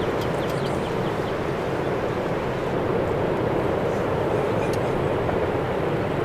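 Strong wind blowing steadily, a constant rushing noise.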